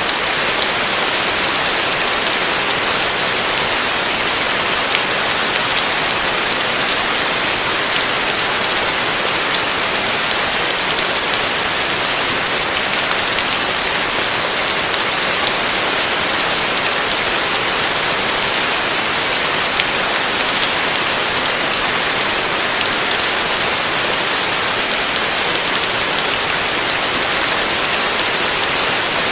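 Heavy rain falling on a roof, a steady dense hiss of drops with fine patter.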